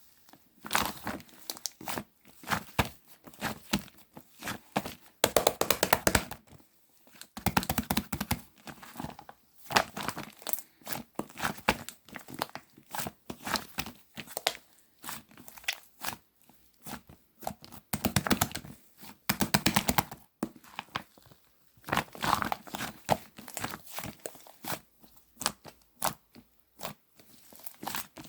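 Slime being squeezed, pressed and stretched by hand, giving dense irregular bursts of crackling, crinkling clicks and pops.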